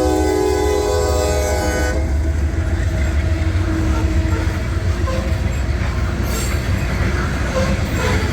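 Locomotive K5LA five-chime air horn sounding a held chord that cuts off about two seconds in. Under and after it comes the heavy low rumble of the GE diesel locomotives and loaded coal cars rolling past.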